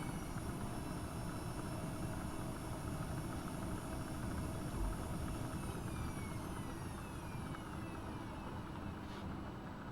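AEG Öko-Lavamat 72520 washing machine's drum motor winding down from a spin: a whine falling steadily in pitch over a steady rumble.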